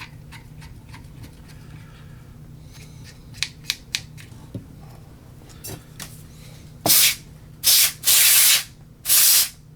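Cleaning soot off a vintage tube radio's chassis: a few light clicks, then four short hissing bursts of scrubbing or spraying in the last three seconds.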